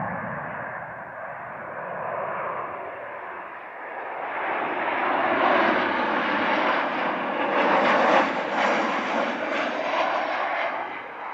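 Jet aircraft passing close by, its engine noise building to a peak in the middle of the pass and then fading away.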